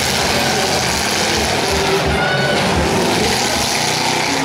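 Demolition derby cars' engines revving loudly as the cars manoeuvre on the dirt.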